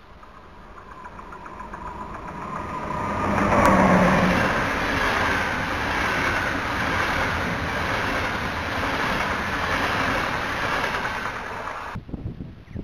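Locomotive-hauled passenger train approaching and passing close by at speed: a rising rumble that peaks as the locomotive goes by about four seconds in, then a steady rush of wheels on rails as the coaches pass. The sound cuts off abruptly near the end.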